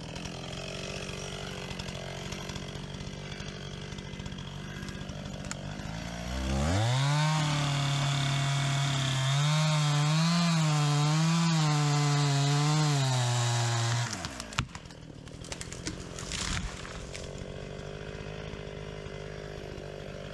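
Chainsaw idling, then throttled up about six seconds in and held at high speed for about seven seconds, its pitch dipping and wavering as it cuts wood. The throttle drops off around fourteen seconds and the saw runs quieter again.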